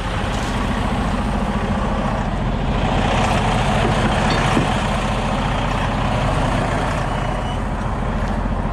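Heavy diesel truck engine running steadily, with a dense rushing noise over it.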